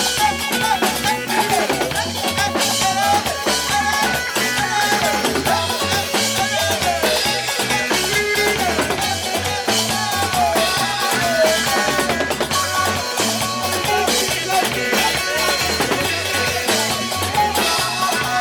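A band playing music at a sound check: a drum kit and bass keep a steady beat under a wavering, sliding lead line.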